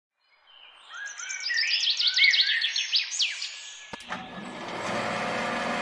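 Birds chirping in a quick run of falling calls, fading in over the first few seconds. About four seconds in there is a click, and music with held notes begins.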